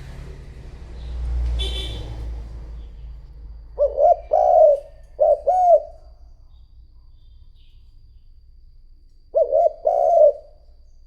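Spotted dove cooing: a run of short and longer low coos about four seconds in, and a second shorter run near the end. It is a decoy bird's call, used to draw wild doves in.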